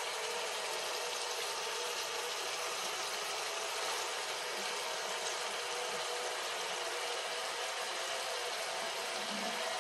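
Cauliflower and tomato frying in a steel pot, giving a steady, even sizzle with a faint steady hum underneath.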